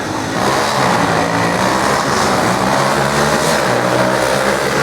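Off-road racing vehicle engines running loud and steady on a dirt drag strip.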